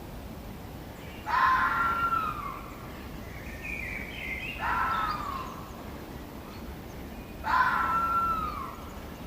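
Three loud animal calls about three seconds apart, each a short cry that falls in pitch, with softer chirps between them, over steady outdoor background noise.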